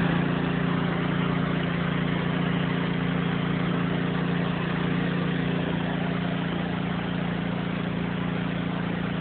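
Pressure washer running steadily: a constant engine hum under the hiss of the water jet spraying concrete.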